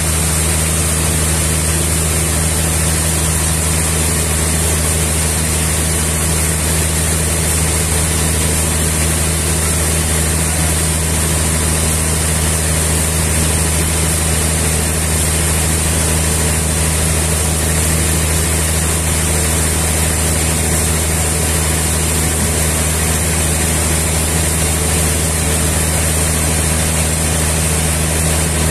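Sawmill engine running steadily: an even low hum with a constant high hiss and no change in load.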